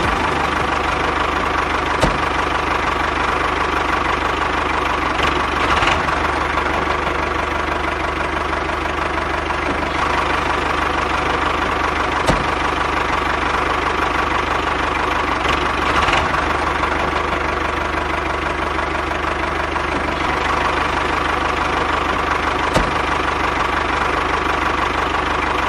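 Small engine of a homemade mini tractor running steadily, with a few brief sharp clicks.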